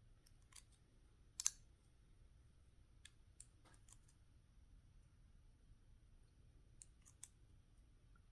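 Near silence broken by a few faint, scattered clicks of small lock-cylinder parts being handled, the loudest about a second and a half in.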